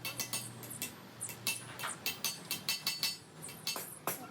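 Metal parts and tools clinking and tapping against each other, a quick irregular run of light strikes, each with a short metallic ring.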